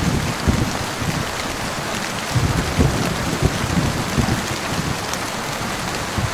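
Heavy rain in a thunderstorm, falling steadily as a dense hiss, with an uneven low rumble surging underneath, strongest a little past halfway.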